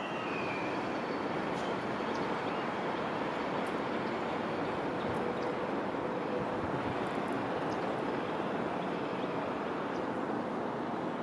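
Steady outdoor background rumble and hiss, even in level throughout, with one short falling chirp from a small bird right at the start.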